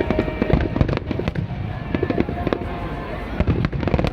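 Aerial fireworks bursting in quick, irregular succession: a dense run of sharp bangs and crackles.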